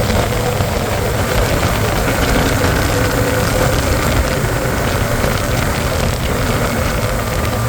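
Hero Xtreme 125R's single-cylinder engine running steadily as the motorcycle is ridden, mixed with a steady rush of wind noise.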